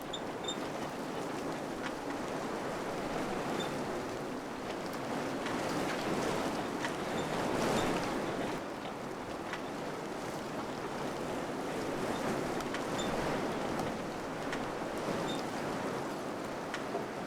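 Wind blowing steadily, gently rising and falling in gusts and swelling about halfway through, with a few faint scattered ticks.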